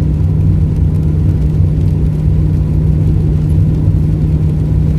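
Car engine and road noise heard from inside the moving vehicle: a steady low drone.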